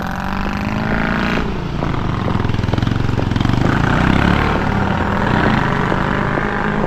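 A motor vehicle's engine running close by. Its steady note changes about a second and a half in to a deeper, rougher sound.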